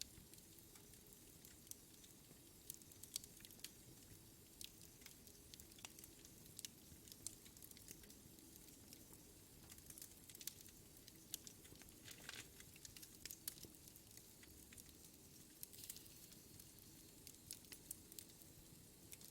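Faint wood fire in a fireplace crackling, with frequent small irregular pops and snaps.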